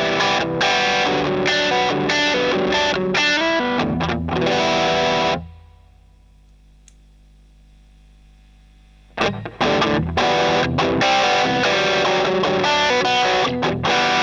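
Electric guitar played through an overdrive pedal, distorted chords and riffs. About five seconds in the playing stops and rings out, leaving a low amp hum, and it starts again about nine seconds in.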